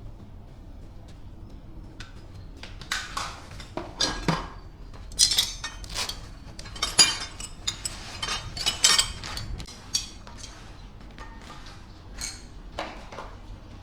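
Hard metal objects clinking and clanking against each other in an irregular run of knocks, busiest from about three to ten seconds in, then a few lighter clinks.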